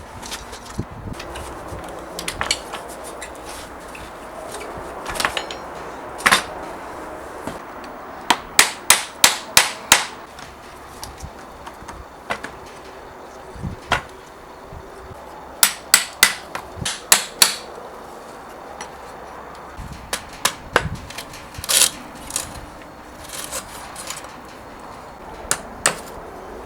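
Hammer strikes: quick runs of five or six blows, about three a second, with single knocks in between.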